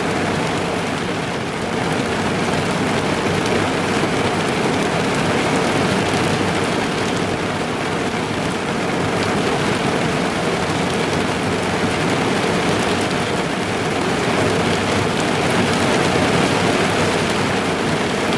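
Heavy rain drumming on a car's roof and windows, heard from inside the car as a dense, steady patter.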